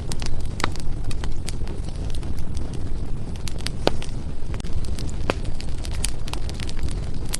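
Firewood burning in a fireplace: irregular sharp crackles and pops, a few louder than the rest, over a steady low rumble of the flames.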